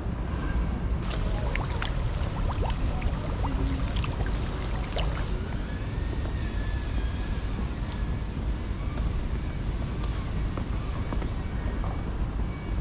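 Harley-Davidson Street 750's liquid-cooled V-twin running steadily through a Vance & Hines slip-on exhaust, a deep, even rumble.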